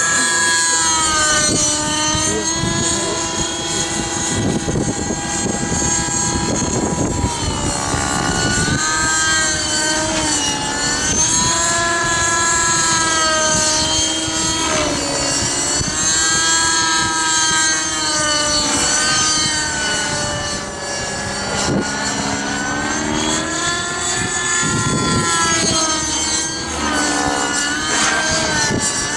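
Align T-REX 600 RC helicopter's 55H nitro engine and rotors flying 3D manoeuvres, the engine's pitch swinging up and down every few seconds as the load changes. Wind buffets the microphone underneath.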